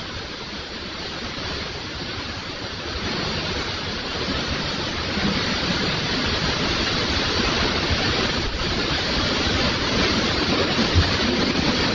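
Fast-flowing floodwater rushing, a steady dense noise.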